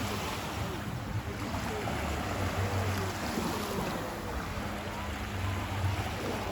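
Beach ambience: ocean waves washing on the shore with wind on the microphone, and faint distant voices of beachgoers.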